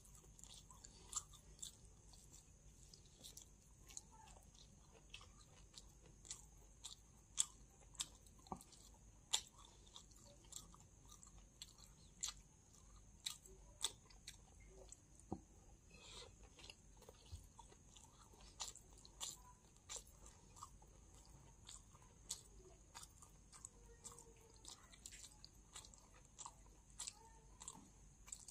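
Quiet, close-miked chewing and biting of food: irregular wet mouth clicks and smacks, about one or two a second, over a faint steady high hiss.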